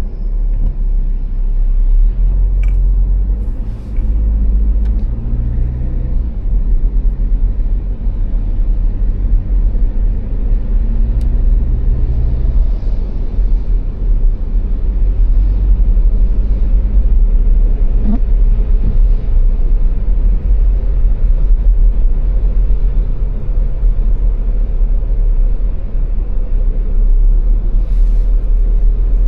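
A car driving at speed on the Autobahn: a steady, heavy low rumble of road and engine noise. It swells sharply at the very start and then holds steady.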